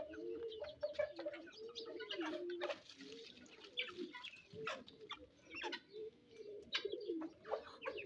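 Backyard birds calling in low, arching coos and clucks, one after another, from feeding chickens and pigeons, with scattered short taps.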